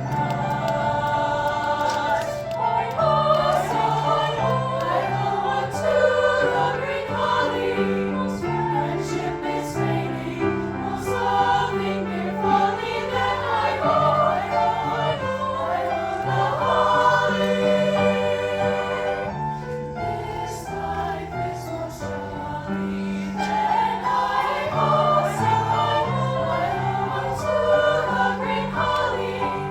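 A school choir singing in several parts in harmony, with a low line moving in held steps beneath the upper voices.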